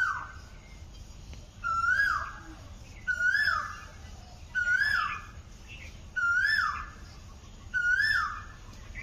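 A bird calling over and over, about once every one and a half seconds. Each call is a short clear note that lifts briefly and then drops away.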